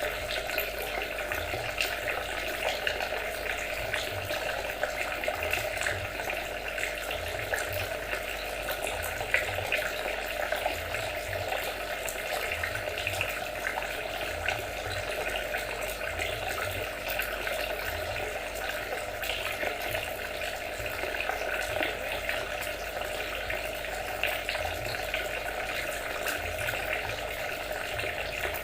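Water trickling and splashing steadily, a continuous babble of many small splashes.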